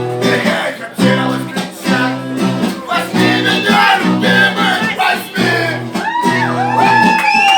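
Guitar music between sung verses: rhythmic strummed chords, with gliding bent notes from about six seconds in.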